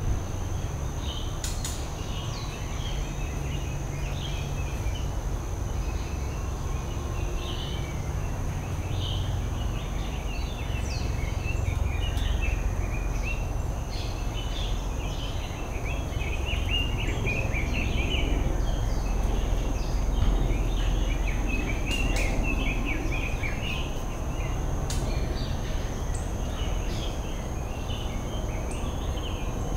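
Outdoor ambience: many small birds chirping and twittering over a steady low rumble, with a faint steady high-pitched whine.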